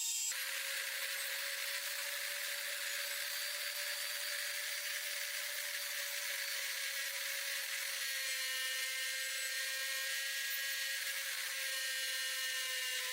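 A small high-speed power tool running steadily with a whine. Its pitch drops abruptly just after the start and then holds, over a steady high hiss.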